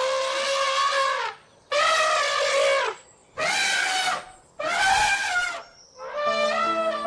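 Elephant trumpeting: a series of loud calls about a second each, with short gaps between them, each dipping in pitch as it ends. Music with steady held notes comes in near the end.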